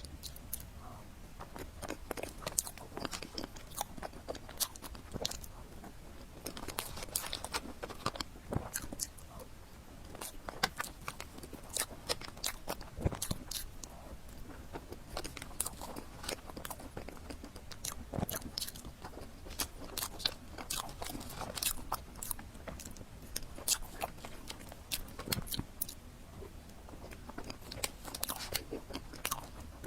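Close-miked mukbang eating: a person chewing and biting food, with many quick, irregular crisp clicks and crunches.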